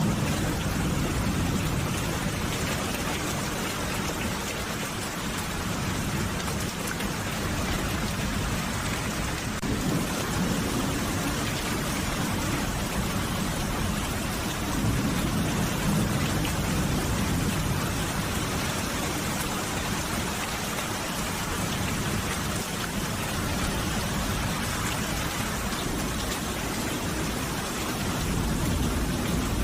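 Steady, heavy rain with a low rumble underneath that swells and fades now and then, like distant thunder.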